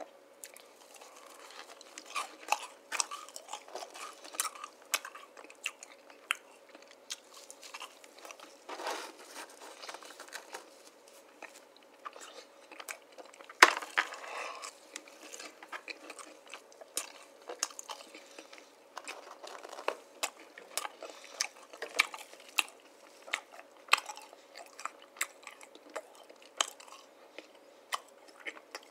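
Close-miked chewing and crunching of candy: many short, sharp crackles and mouth clicks, the loudest about halfway through.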